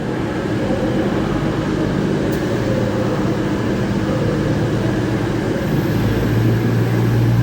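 Diesel engines of coupled Class 220 and 221 Voyager units running steadily at the platform, a constant droning hum loud enough to drown out the station announcements. A deeper, stronger engine note comes in about six seconds in.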